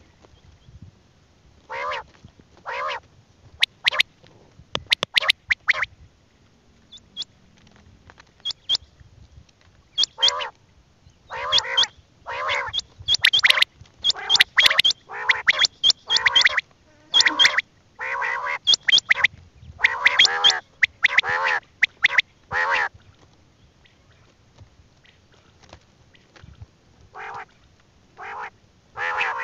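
A bird calling over and over in short, harsh pitched notes, in irregular runs with gaps, mixed with sharp high clicks.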